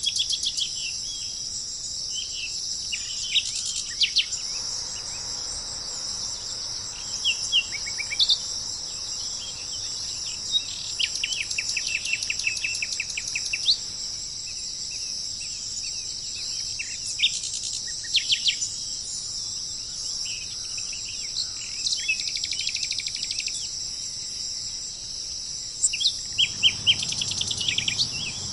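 Wild songbirds chirping and trilling in short phrases every few seconds, one a long run of rapid repeated notes, over a steady high-pitched chorus of insects.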